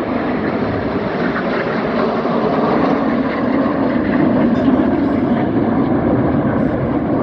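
Jet noise from the Red Arrows' BAE Hawk T1 jets flying their aerobatic display, a steady rushing sound that grows a little louder about four seconds in.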